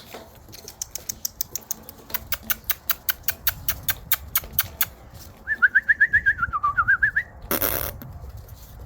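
A bird calling: a rapid, even series of sharp chips, about four or five a second, then a wavering whistled call lasting about two seconds. A short burst of noise follows near the end.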